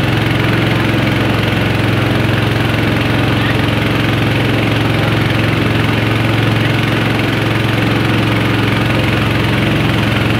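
A river tourist boat's motor running steadily at an even pitch, heard from on board.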